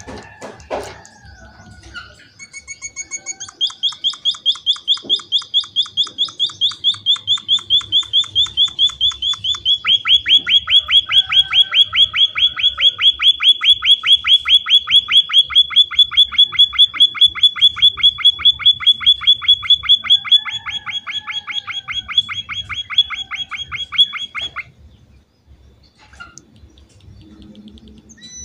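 Small finch-type bird (emprit) calling a long, rapid run of repeated chirps, about six a second, for some twenty seconds; the run starts about two seconds in and stops suddenly a few seconds before the end.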